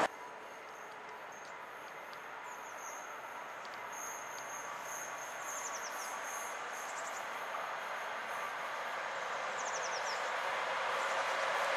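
SJ Rc electric locomotive hauling a regional train on approach, its running noise growing steadily louder. A thin high-pitched tone sounds above it through the middle of the stretch.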